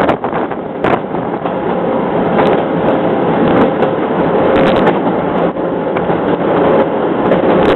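Bernina Express train running, heard from on board as a loud, steady rushing noise with a faint steady hum. Wind buffets the microphone, and scattered short clicks sound throughout.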